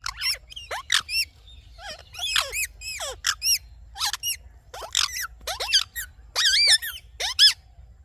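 Indian ringneck parrot calling: about a dozen short, sharp screeches in quick succession, each an arching squawk, stopping just before the end.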